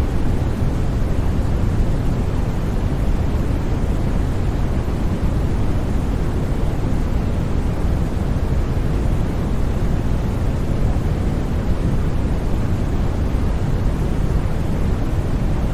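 Steady, unbroken synthetic noise of the kind sold as white noise for sleep. Its energy is heaviest in the bass and thins out toward the treble, so it sounds deep and even rather than bright and hissy.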